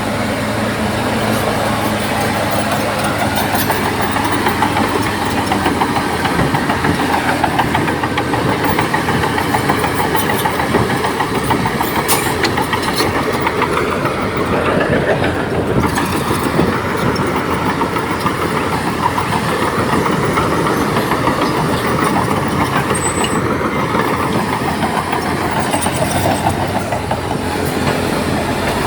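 Crawler bulldozer pushing soil: its diesel engine runs under load with the clanking of steel tracks, steady throughout, with a few sharp clanks midway.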